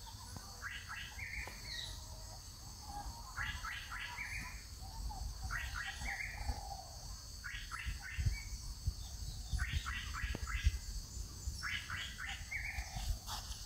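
A songbird repeating a short phrase of three or four quick notes about every two seconds, over a steady high-pitched hiss, with a few soft low thumps in the second half.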